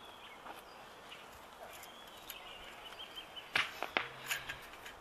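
Quiet outdoor ambience with faint bird chirps. A few sharp clicks or knocks come a little past halfway, two of them loud and half a second apart.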